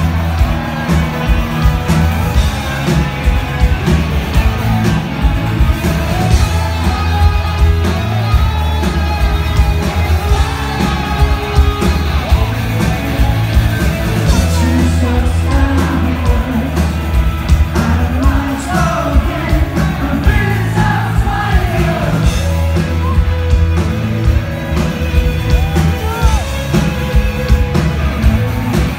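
Live rock band playing loud in a large hall: electric guitar, bass and drums with a steady beat, with singing and shouts over it.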